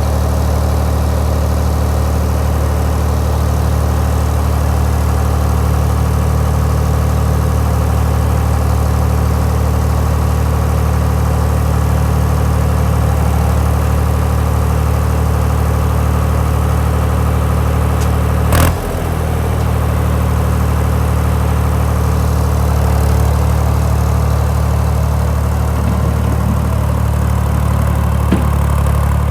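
Ford 3930 tractor's three-cylinder diesel engine running steadily, with one brief sharp knock about two-thirds of the way through.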